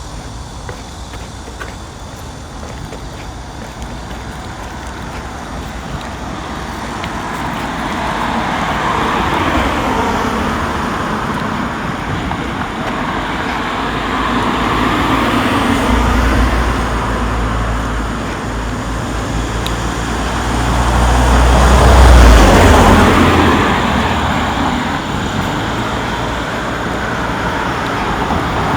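Road traffic going past: several vehicles swell and fade in turn. The loudest, with a deep rumble, passes about three-quarters of the way through.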